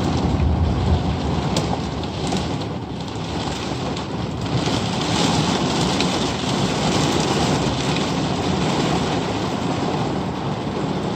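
Heavy rain falling steadily in a thunderstorm: an even hiss with a low rumble underneath.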